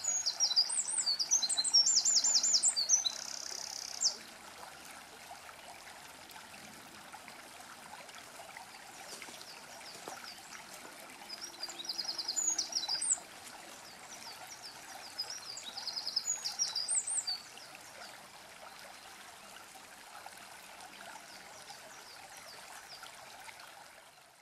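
A songbird singing three phrases of rapid, high trills, the first the loudest, over the steady rush of a small stream.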